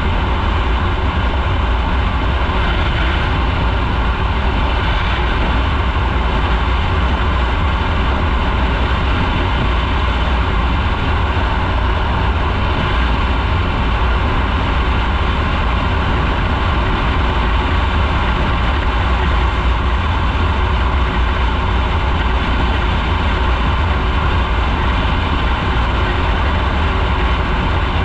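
Motorcycle riding at a steady speed: the engine and road noise run evenly, under a heavy low rumble.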